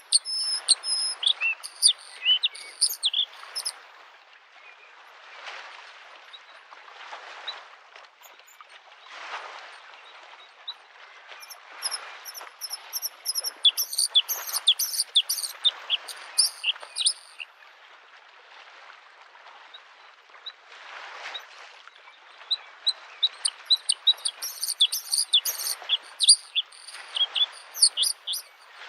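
Bluethroat singing three bursts of rapid, varied high notes, over the soft, repeated wash of small waves on a lake shore, swelling every couple of seconds.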